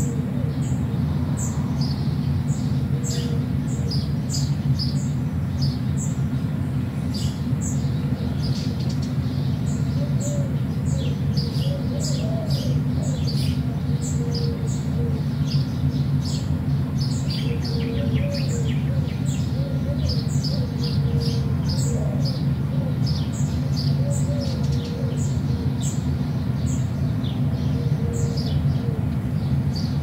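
Small birds chirping, many short high chirps in quick series, with a lower warbling call now and then, over a steady low rumble.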